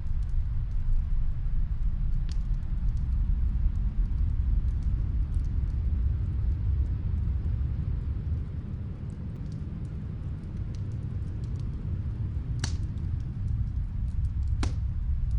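Snowstorm wind rumbling low and steady, easing a little midway and then swelling back, with a few sharp pops of a wood fire crackling, two of them near the end.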